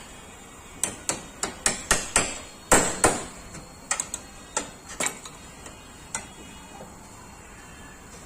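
Hammer blows on a Maruti 800's sheet-steel body panel, beating out a dent by hand. A quick run of about a dozen sharp strikes comes first, then a few more spaced out, stopping about six seconds in.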